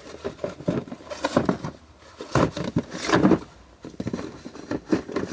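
Rummaging through stored items for spools of welding wire: irregular knocks, clatters and scrapes of things being moved and set down.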